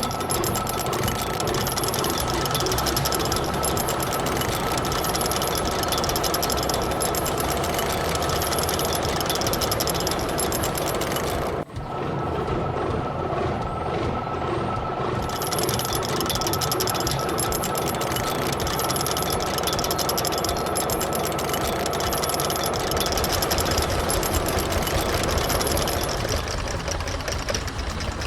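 Tractor engine running steadily, with a brief break a little before halfway.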